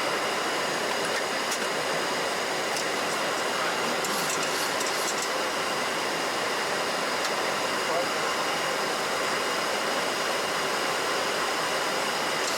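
Steady cockpit noise of a Boeing 737NG: an even rush of airflow and air-conditioning hiss, with a few faint steady tones and some light ticks.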